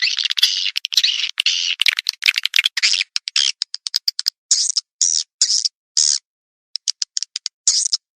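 Recorded swiftlet calls played as a lure. Dense chattering chirps come first, then separate buzzy chirps about twice a second, and a quick run of short clicks near the end.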